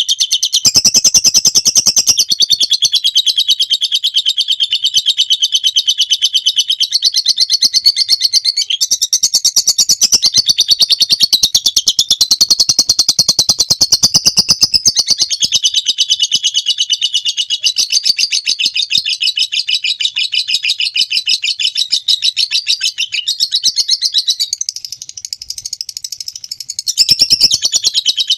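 Lovebird singing a long, unbroken 'ngekek' chatter: a very rapid, shrill run of high notes that barely pauses, dipping in loudness for a moment near the end.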